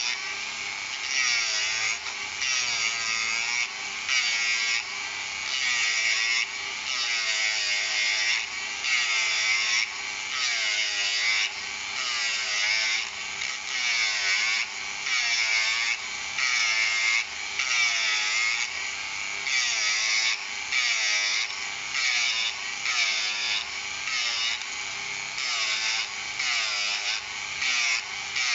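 Hand-held rotary tool with a steady motor whine, its burr grinding down deposited plastic in repeated scraping passes about once a second.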